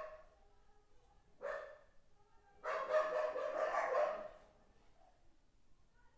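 Dog barking: one bark about a second and a half in, then a quick run of barks lasting over a second.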